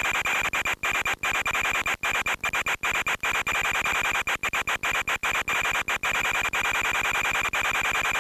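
Audio from an RC plane's FPV feed: a steady rushing hiss with a high, unchanging whine, broken by many brief dropouts.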